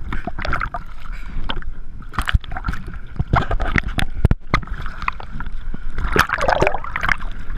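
Speedboat running at speed over choppy water, with a steady engine rumble and repeated sharp slaps and splashes of water against the hull.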